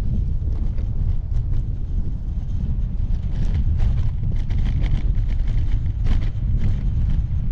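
Wind rumbling steadily on the microphone of a moving bicycle, with irregular sharp clicks and rattles from about three seconds in.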